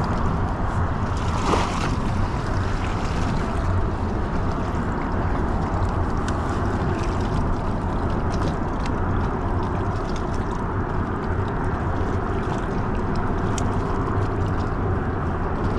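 Steady rushing noise of a kayak moving through the water.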